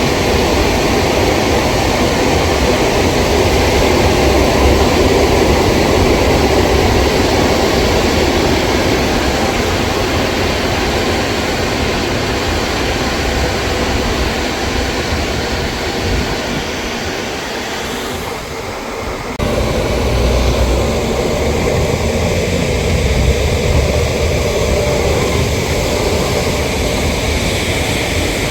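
High-pressure jet washer spraying water, a loud steady hiss with the machine's low rumble beneath; it eases off briefly about two-thirds of the way through, then comes back at full force.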